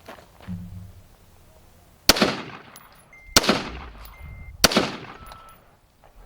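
Three gunshots about a second and a half apart, each sharp crack followed by a fading echo.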